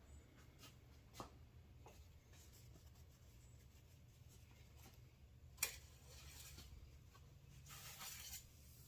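Near silence with a faint low hum, broken by a few small clicks, one sharper than the rest about halfway through, and a brief rustle near the end.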